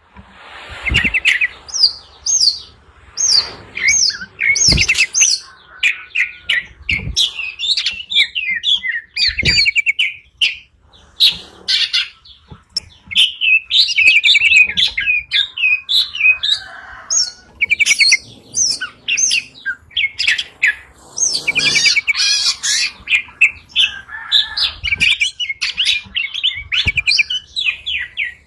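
Small songbirds chirping busily: rapid runs of short, high trilled notes, one after another with only brief pauses. A few low thumps come in during the first ten seconds.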